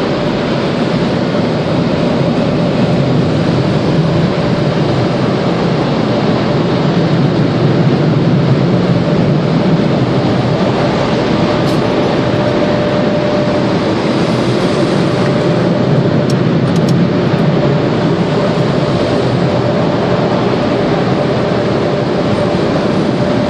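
Automatic car wash machinery running: a loud, steady rushing noise with a faint steady hum under it and a few small clicks partway through.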